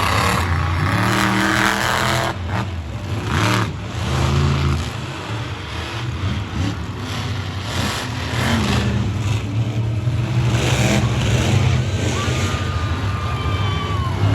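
Large monster truck engines running and revving, the pitch rising and falling.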